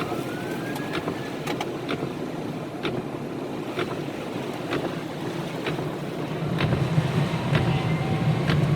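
Heavy rain pouring on a car with its engine running, with scattered sharp ticks. A faint siren wails in the distance, and the engine grows louder about six and a half seconds in.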